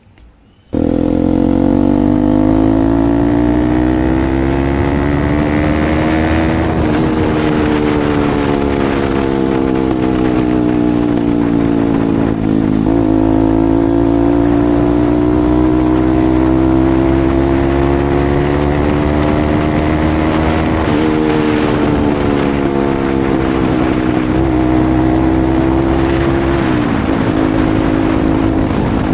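Bajaj Pulsar NS200's single-cylinder engine through an aftermarket Akrapovic exhaust, starting suddenly about a second in and running under way. Its pitch climbs slowly and drops sharply about four times, like a bike accelerating and shifting up through the gears.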